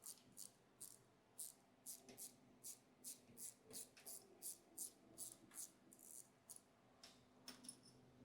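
Hand ratchet wrench clicking faintly in short, regular strokes, about two or three a second, as a bolt is run in.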